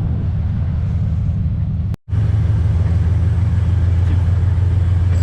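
Steady low drone of a DPL-1 diesel train running. The sound cuts out for a split second about two seconds in, then comes back louder.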